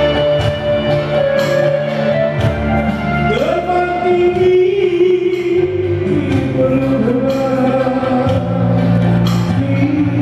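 Live band music with a singer holding long notes that slide between pitches, over steady bass and regular percussion hits.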